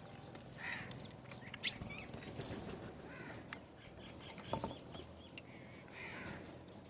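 Birds at a feeder giving many short chirps and calls, with a few sharp knocks about a second and a half in and again about four and a half seconds in.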